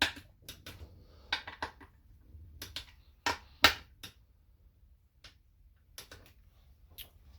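Irregular metallic clicks and taps of a wrench and socket on the valve body's bolts, a dozen or so scattered sharp ticks as the bolts are brought to torque.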